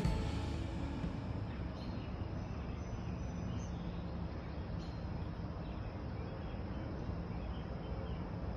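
Steady background noise with a low hum, with a few faint, short high chirps now and then.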